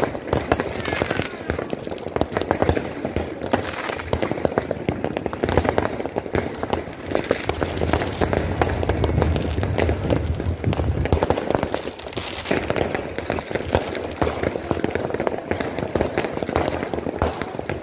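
Fireworks and firecrackers going off all around, many sharp bangs and crackles in quick, overlapping succession with no pause, heavier low booms for a few seconds midway.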